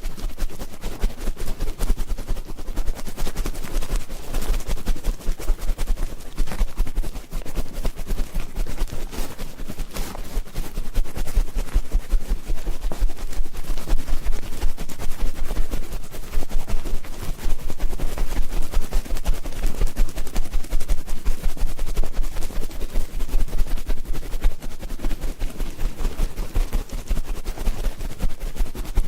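Ear-cleaning ASMR: dense, rapid crackling and scratching close on the microphone, with a low rumble underneath, running without a break.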